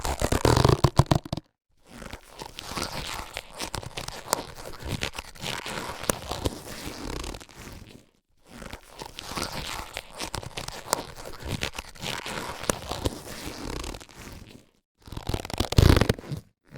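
Latex surgical gloves being handled: a short loud burst at the start and another near the end, with two longer stretches of rubbing and crinkling full of small clicks in between, each separated by a brief silent gap.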